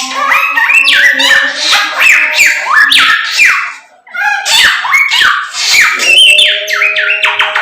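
Samyong songbird singing loudly and without letup, a fast run of sharp falling whistled notes, with a short break about four seconds in.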